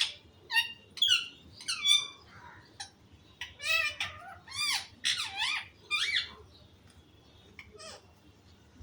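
Pet parrot giving a series of short, high, squeaky calls that bend up and down in pitch for about six seconds, then one fainter call near the end.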